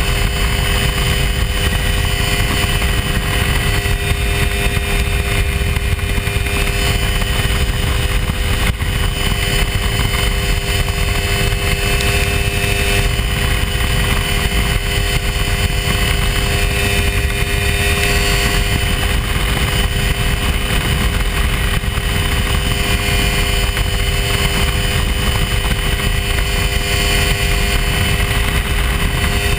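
Hy-Tek Hurricane ultralight airplane's engine running steadily in flight, a constant drone with no change in pitch.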